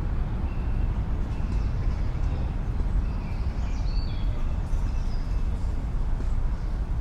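Urban park ambience: a steady low drone of distant city traffic, with faint short bird chirps now and then.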